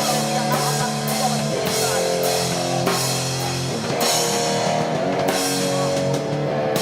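Live hardcore band playing: held, distorted electric guitar chords that change every second or two over a drum kit, with cymbal crashes on the chord changes.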